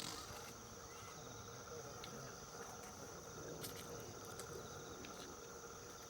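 Faint, steady, high-pitched chirring of insects such as crickets, with a few faint clicks.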